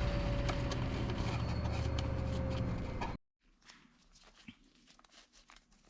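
Club Car golf cart's single-cylinder Kawasaki FE290 engine running steadily, cut off abruptly about three seconds in, followed by near silence with a few faint clicks of handling.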